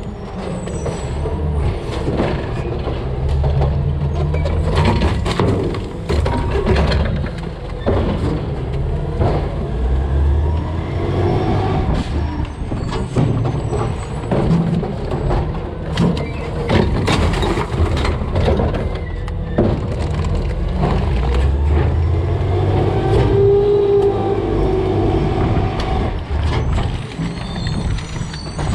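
Peterbilt 320 CNG garbage truck with a DaDee Scorpion automated side-loader running steadily while collecting trash. Repeated clanks and thuds of garbage dropping into the hopper and the arm working, with a hiss of air brakes among them.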